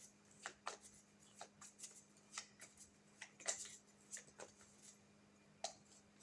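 Tarot cards being handled and drawn: quiet, scattered rustles and soft clicks of card stock, over a faint steady hum.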